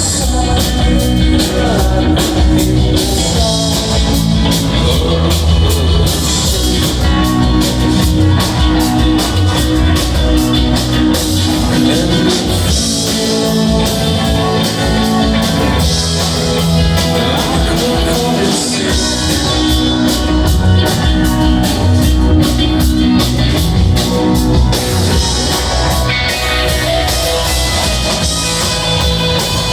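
Live rock band jamming: electric guitars over a steady drum kit beat, loud and continuous.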